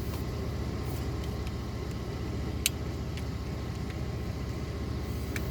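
Car engine idling with a steady low rumble, and one sharp click about halfway through.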